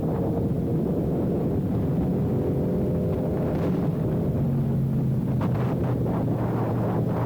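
Sportbike engine running at road speed under heavy wind noise on the microphone, its note shifting a few times.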